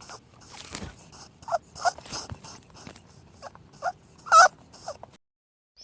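An animal giving short, high squeaks, about half a dozen in a row, over faint clicks and rustling. The loudest squeak comes a little past four seconds in, and the sound cuts off about a second before the end.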